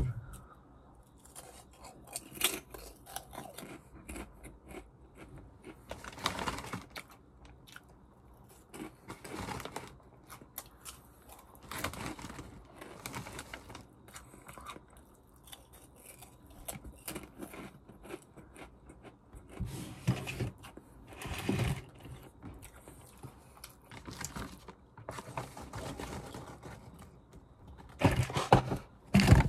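Crunchy potato snack being chewed, with scattered irregular crunches and pauses between mouthfuls, and a louder burst of noise near the end.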